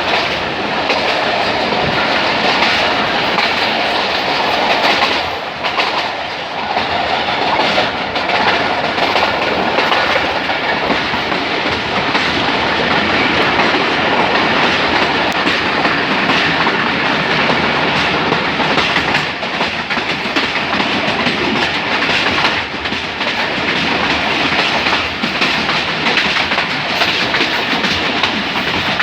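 Passenger train's coaches rolling past at slow speed, a steady loud rumble with the wheels clattering over the rail joints.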